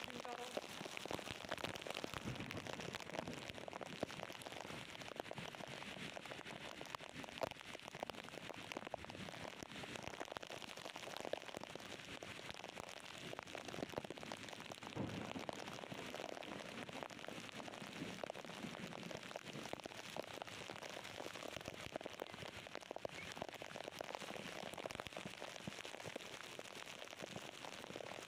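Heavy rain falling steadily, a dense patter of drops. A brief low swell comes about halfway through.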